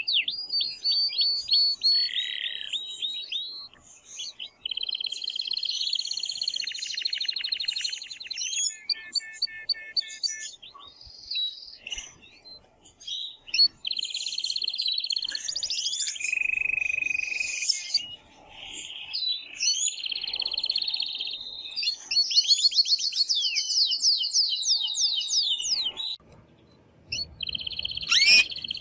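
Male domestic canary singing loudly: long phrases of rapid trills and rolling notes, breaking off briefly a few times. It is an excited male's courtship song, of the kind used to stimulate a female to mate.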